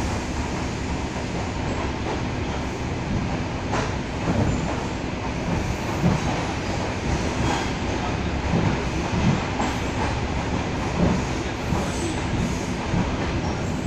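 Suburban electric train (elektrichka) running, heard from inside the carriage: a steady rumble of wheels on the track with irregular clacks as the wheels cross rail joints, and one sharp click about four seconds in.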